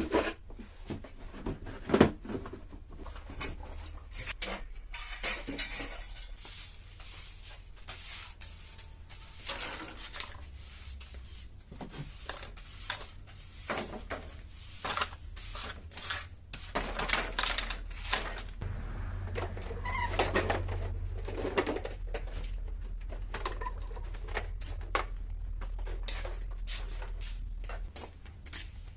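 Cleaning sounds: things being handled and set down with clatters and knocks, mixed with stretches of rustling or scrubbing. A steady low hum comes in about halfway through and stops shortly before the end.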